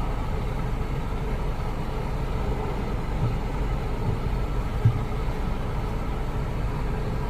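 Steady low rumble of a running car, with a small knock about five seconds in.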